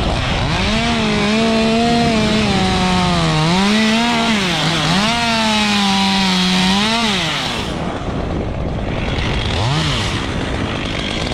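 Two-stroke chainsaw running at full throttle and cutting wood, its pitch sagging under load and recovering several times. About seven seconds in it drops back to idle, with one short throttle blip near the end.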